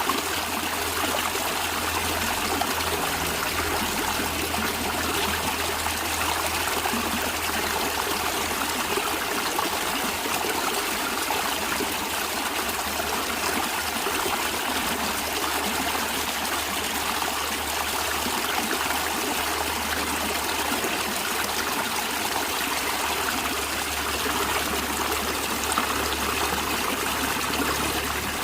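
Water in a natural stream flowing and trickling steadily, with no breaks or changes.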